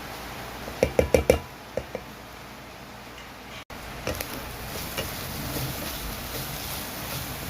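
Kitchen utensils knocking against cookware: about four quick, ringing knocks about a second in, then two lighter ones. After a sudden break, a steady hiss with a few faint clicks.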